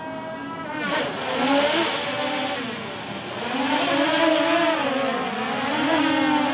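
DJI Mavic Air 2 drone's motors and propellers whining with a hiss, the pitch rising and falling again and again as it is flown hard in sport mode. The whine builds up about a second in.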